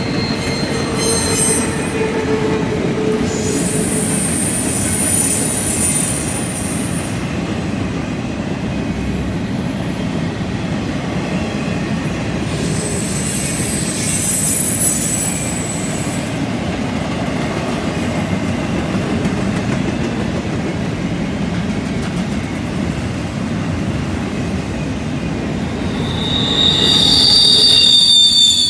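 Empty intermodal well cars of a freight train rolling past on a curve, with a steady wheel-on-rail rumble. Wheel flanges squeal against the rail in high thin spells, with a louder, lower squeal near the end.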